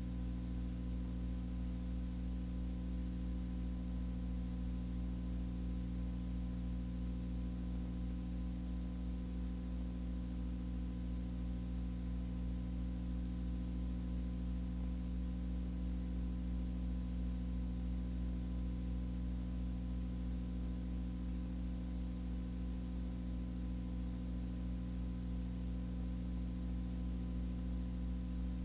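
Steady low hum made of several constant tones over a faint hiss, unchanging throughout.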